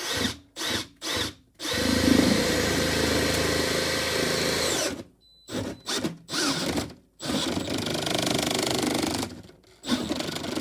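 Cordless drill turning a long auger bit, boring a hole through the wall for the alarm keypad. A few short trigger bursts at first, then longer steady runs, with stops and restarts about halfway and near the end; the bit goes through easily, just like butter.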